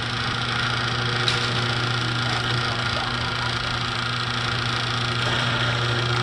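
Garage door opener motor running steadily as the door travels, a constant hum over a mechanical rattle, with a faint click about a second in.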